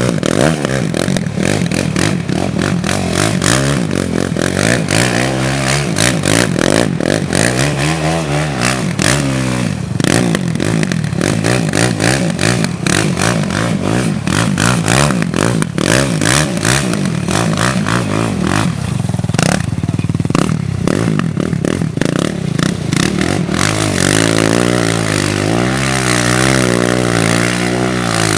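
Four-wheeler engine riding hard, revving up and easing off again and again, with clattering and knocking from the machine as it goes over rough ground. Near the end the engine settles into a steadier run with a wavering pitch.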